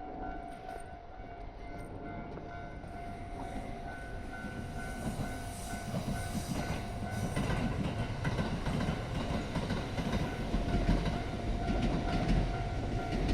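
Japanese level crossing warning bell ringing steadily while a train runs past, its rumble and wheel noise building from about four seconds in and staying loud to the end.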